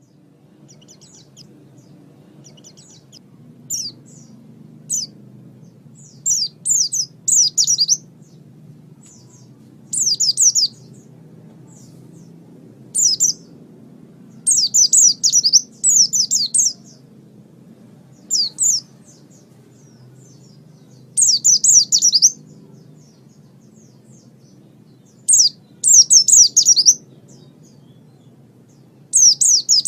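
A bird calling in short bursts of rapid, high chirps, a phrase every one to three seconds, over a faint low steady hum.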